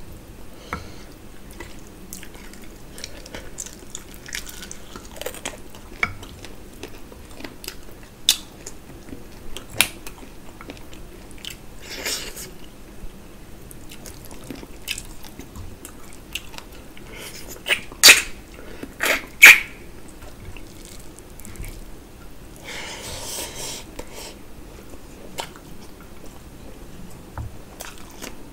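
Close-miked chewing of a person eating rice and mutton curry by hand, with scattered sharp clicks and crunches; two loud sharp ones come a second and a half apart past the middle.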